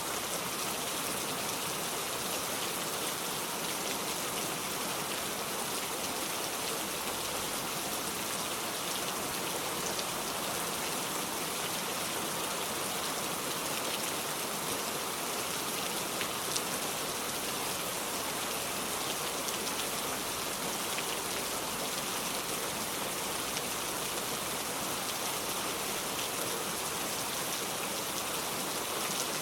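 Steady rain falling, an even hiss of many drops with a few sharper drop ticks.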